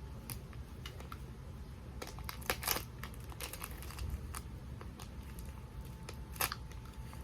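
Plastic snack-bar wrapper being handled and worked at to open it: scattered crinkles and sharp clicks, loudest about two and a half seconds in and again a little after six seconds.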